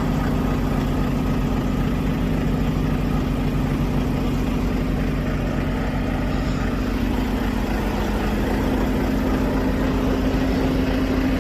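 Semi-truck's diesel engine and road noise heard from inside the cab while driving: a steady drone with a low engine hum.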